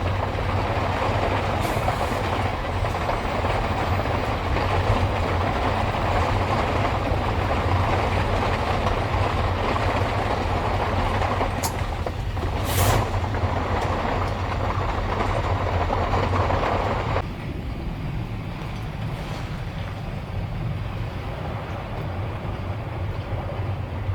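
Typhoon wind and heavy rain buffeting a kei-truck camper, heard from inside as a steady low rumble under a dense hiss. About seventeen seconds in, the hiss drops abruptly while the rumble goes on.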